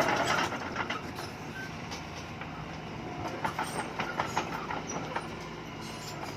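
Crawler bulldozer's diesel engine running steadily under load, with repeated metallic clanks and knocks from its tracks and blade working soil and rubble, most frequent in the first second.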